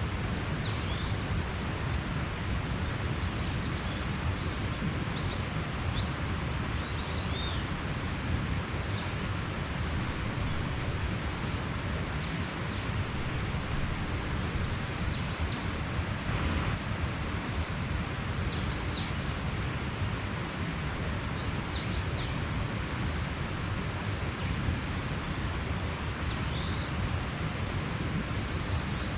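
Mountain stream flowing steadily, with birds chirping in short high calls every second or two over the rush of the water.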